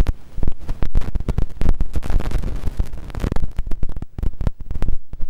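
Microphone buffeting: irregular low thumps and pops in quick succession with a rumbling undertone, easing off in the last second or so.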